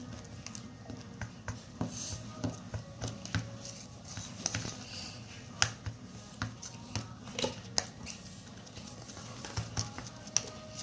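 Spoon stirring a sticky mix of glue, tempera paint and shaving foam in a bowl, making irregular soft clicks and squishes.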